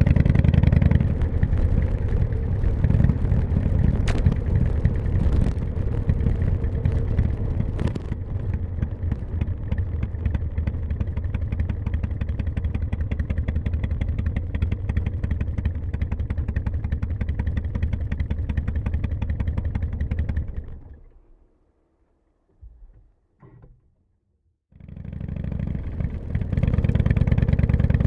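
Harley-Davidson V-twin motorcycle engine running steadily. About two-thirds of the way through it fades out to near silence with a couple of faint short sounds, then fades back in near the end.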